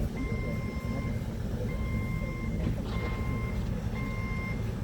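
Stand-up forklift's reversing alarm beeping four times at an even pace, the sign that the forklift is backing up, over a steady low rumble.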